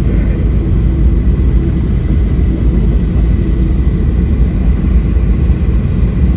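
Boeing 737-800's CFM56 jet engines running at taxi power: a steady low rumble with a faint, thin high tone above it.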